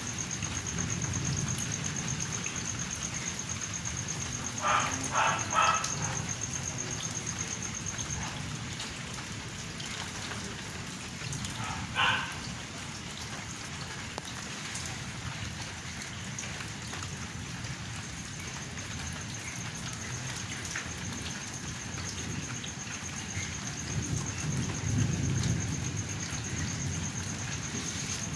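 Steady rain falling during a thunderstorm, with low rolling thunder that swells near the end. A dog barks a few times in quick succession about five seconds in and once more near the middle.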